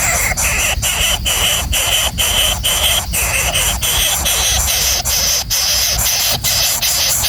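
Small birds chirping continuously in a dense, high-pitched chatter, with brief breaks about twice a second.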